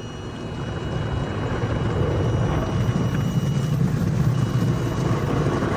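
Automatic car wash machinery working over the car, heard from inside the cabin: a steady rumbling, fluttering wash noise that builds up over the first second or two and then holds.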